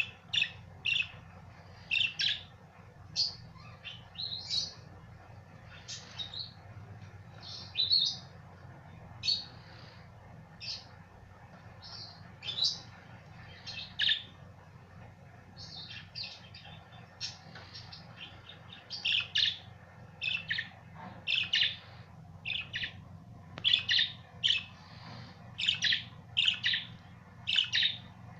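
Budgerigars chirping: short, separate chirps, coming thicker and faster in the second half.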